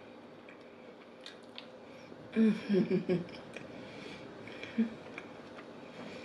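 Close-miked eating: chewing and small wet mouth clicks, with a cluster of three or four short, low hummed sounds about two and a half seconds in and one more near the five-second mark.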